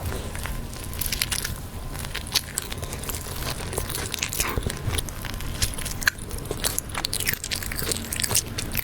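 Close-miked chewing and biting of crocodile meat, with many small irregular clicks and crunches.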